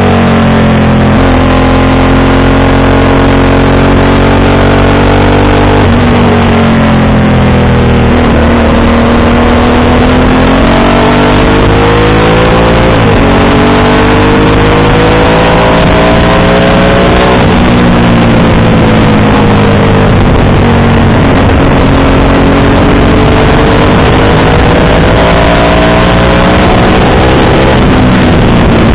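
Motorcycle engine with a JC aftermarket exhaust, running hard under acceleration. Its pitch climbs steadily and then drops sharply at each gear change, about five times, over a constant rushing noise.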